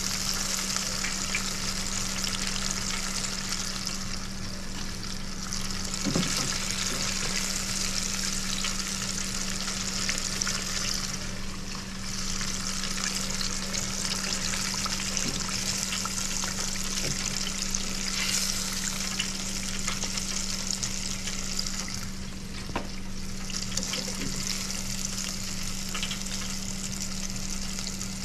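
Thick catfish pieces deep-frying in hot oil: a dense, steady sizzle that eases briefly three times, with a few faint clicks and a steady low hum underneath.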